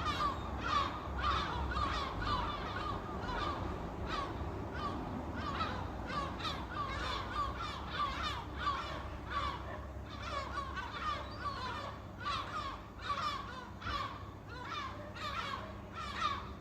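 A flock of birds calling, many short calls overlapping in a dense, unbroken chorus.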